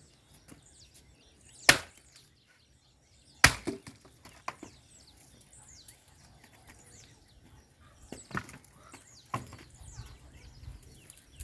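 Firewood being chopped: two sharp chops about two seconds apart, the second the loudest, then lighter knocks of wood several seconds later. The wood is algaroba (mesquite) and old fence stakes.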